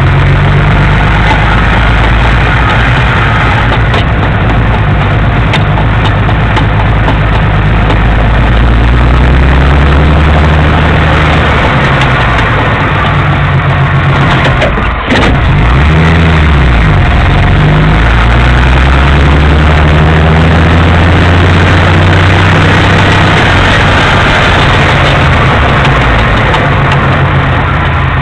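1965 Jeep CJ-5 engine running loudly as the Jeep is driven. The pitch rises and falls, with a brief drop in level about halfway through.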